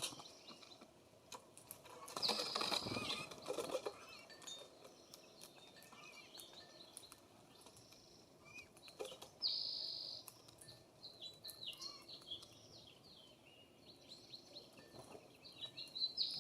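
Several wild birds calling at a feeder: many short high chirps, with a few harsh, buzzy calls about half a second each. The first harsh call, about two seconds in, comes with a louder, noisier burst lasting about a second and a half.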